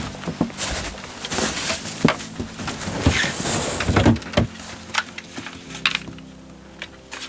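Irregular scraping and crunching noises, loudest about three to four and a half seconds in, then dying down, over faint background music.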